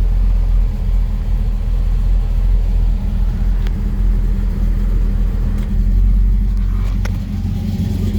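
A 383 cubic-inch V8 with long-tube headers idling steadily, with a deep, even exhaust note.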